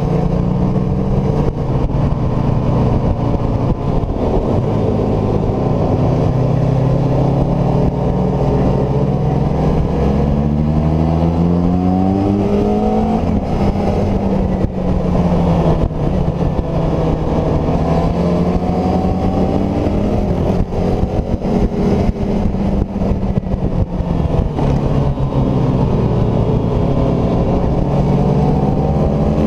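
Kawasaki ZZR600E's inline-four engine running hard at high revs, heard from the rider's seat with wind rush. Its pitch climbs under throttle around ten to thirteen seconds in, drops back, and climbs again near the end.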